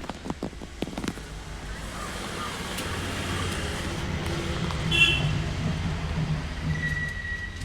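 A motor vehicle running nearby, its low hum swelling after a few light clicks. A short, sharp sound about five seconds in, then a brief high steady tone near the end.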